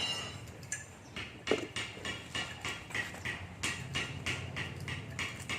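Oil being poured slowly into a submersible pump's motor housing, glugging in regular pulses about three times a second as air backs up through the narrow filler.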